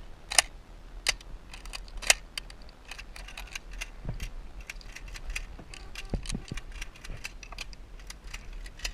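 Irregular light clicks and jingling, with a few sharper clicks in the first two seconds and a couple of dull bumps later on.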